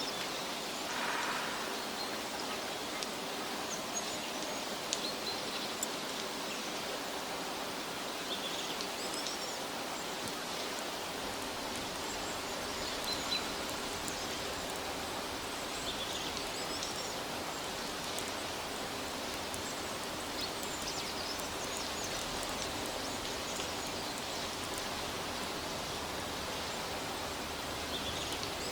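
Steady outdoor forest ambience: an even hiss with scattered short bird chirps and a brief louder rustle about a second in.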